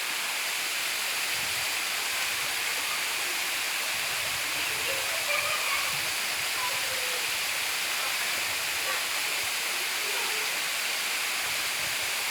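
Waterfall rushing, a steady unbroken roar of falling water, with faint voices in the distance.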